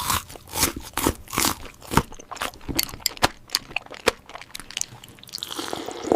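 Mukbang-style eating sounds: crunchy food bitten and chewed, irregular sharp crunches several times a second, with a denser crackly stretch near the end.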